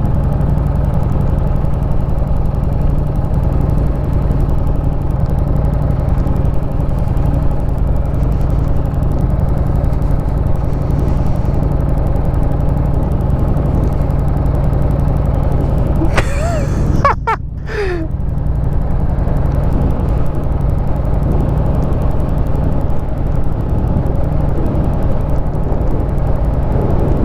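Harley-Davidson Street Rod 750's V-twin idling in neutral while the motorcycle coasts downhill, heard as a steady low rumble mixed with wind noise. A brief high-pitched sound with a bending pitch comes about two-thirds of the way through.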